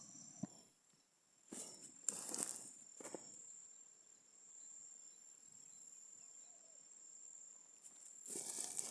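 A steady, thin, high-pitched insect drone, with a few brief rustling crunches of footsteps in dry grass about two seconds in and more rustling near the end.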